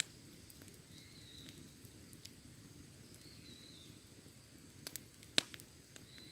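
Wood fire burning with a low steady rush and scattered sharp crackles and pops, the loudest pop about five seconds in. A short high chirp repeats about every two seconds.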